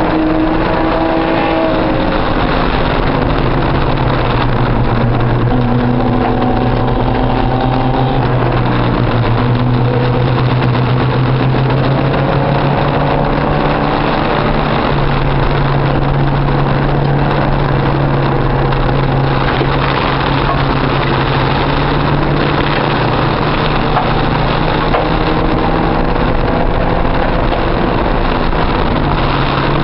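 Porsche 944's four-cylinder engine running hard under racing load, heard from inside the cabin, its pitch stepping and gliding several times as revs change, over steady road and wind noise.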